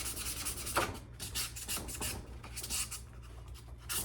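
Sandpaper on a sanding block rubbed back and forth over an iron axe head, in quick strokes at first, then slower, more spaced strokes after about a second.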